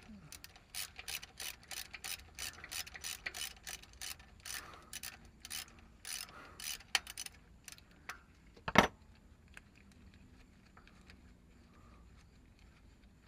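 Ratchet wrench clicking in quick, uneven runs for several seconds as a bolt is turned on the engine's bottom end, then one loud sharp metallic knock near nine seconds in.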